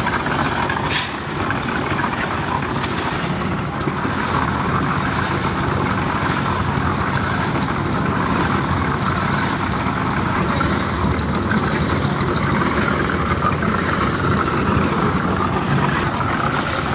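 An engine running steadily at an even speed, with no breaks.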